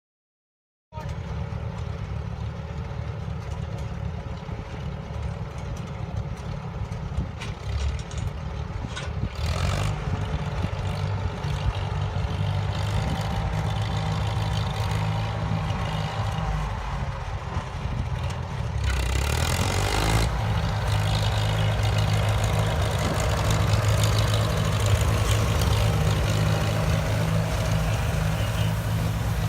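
Farmall tractor's four-cylinder gasoline engine running steadily under work, coming in abruptly about a second in and growing a little louder later, with a couple of brief rushes of noise.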